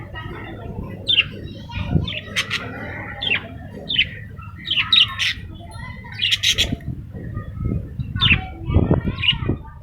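Budgerigars chirping and squawking: short, sharp calls come one after another throughout, with a few low thuds near the end.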